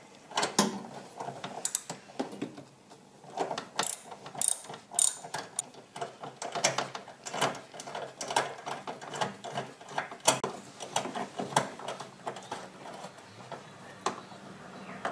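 Ratchet wrench clicking in quick, irregular runs while undoing the bolts that hold the reservoir tank.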